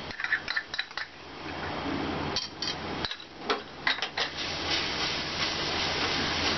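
Grated garlic sizzling in hot mustard oil in a kadai, with scattered clicks and taps of utensils against the pan over the first few seconds. From about halfway, as a wooden spatula stirs it, the frying settles into a steady, fuller sizzle.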